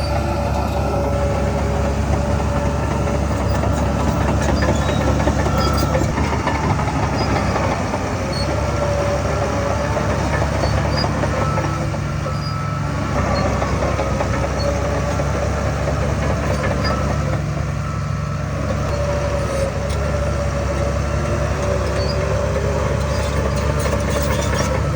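Heavy diesel earthmoving machinery running steadily and loudly: a low engine drone with higher tones wavering above it.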